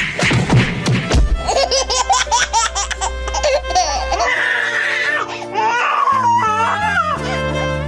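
Background music with high-pitched, giggling laughter over it, of the kind used as a teasing sound effect. Near the start there is a burst of sharp knocks, and after the middle the wavering pitched line continues higher.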